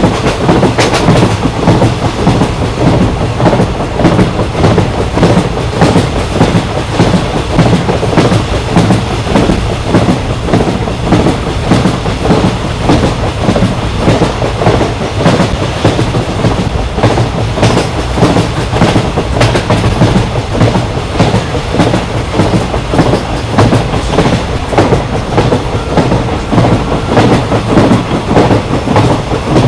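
Train running on rails: a steady rumble with the rhythmic clickety-clack of wheels passing over rail joints.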